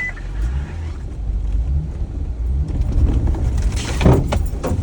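Jeep engine running low and steady while crawling through a deep rut, with a few knocks and a loud clunk from the body and suspension about four seconds in. The clunk is judged an okay one, nothing broken.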